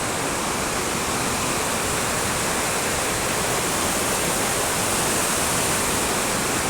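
Swollen river rushing past in a steady, even wash of noise: the river is in high seasonal flow, too deep and fast to cross.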